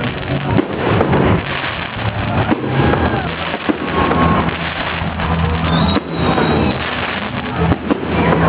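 Fireworks display going off: a dense, continuous run of bangs and crackles at uneven intervals.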